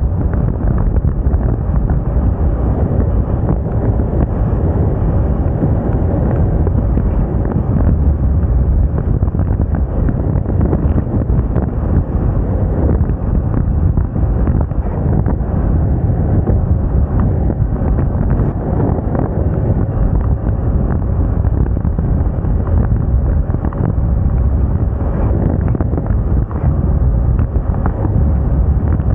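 Wind buffeting the microphone on a moving Moda Moca 110 scooter, with the scooter's small engine running steadily under it.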